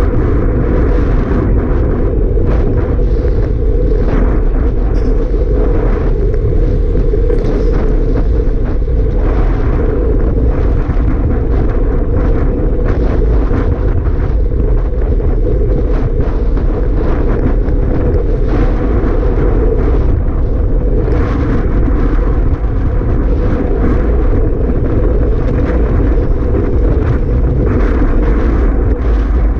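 Strong wind buffeting the microphone: a loud, steady, low rumble with no break.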